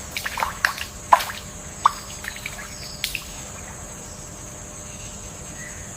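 Water drops plinking into still water, a few quick drips in the first two seconds, then a steady soft background hiss with a thin high steady tone.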